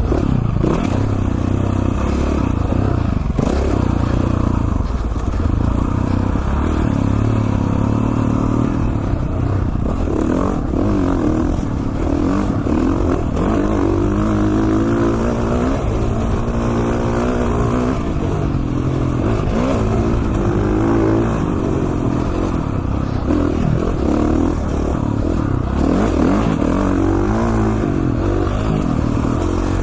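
2017 KTM 450 XC-F dirt bike's single-cylinder four-stroke engine running hard, revving up and down again and again as the rider works the throttle and gears.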